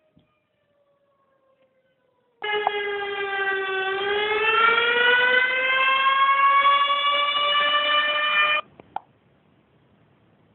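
Tornado siren wailing: one long tone starts abruptly about two seconds in, dips slightly, then climbs slowly in pitch for about six seconds before cutting off suddenly. A fainter falling tone comes before it.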